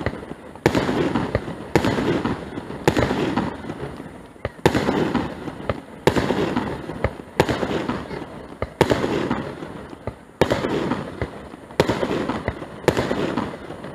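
Aerial firework shells bursting in quick succession, about one sharp bang a second, each trailing off in a fading rumble before the next.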